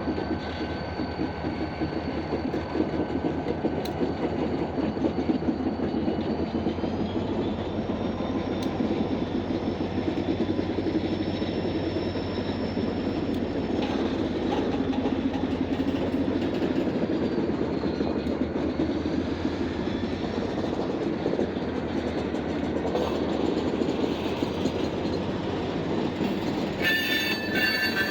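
Freight train cars rolling past, steel wheels clattering steadily over the rails with a faint squeal drifting in pitch. Near the end the wheels squeal louder and sharper.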